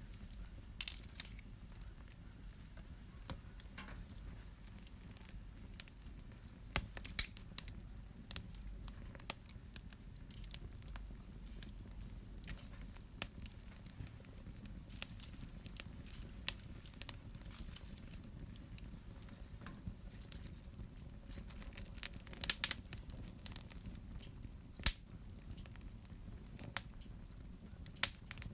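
Wood fire burning in a fireplace: a low steady rumble under irregular sharp crackles and pops, with a small cluster of louder pops about 22 seconds in.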